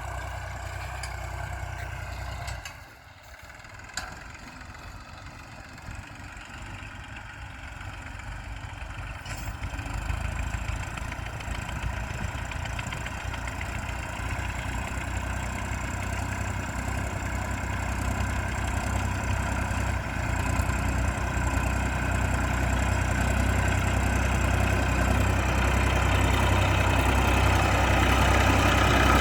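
Massey Ferguson 241 tractor's diesel engine running steadily while it pulls a nine-tine cultivator. It drops off briefly about three seconds in, then grows steadily louder toward the end.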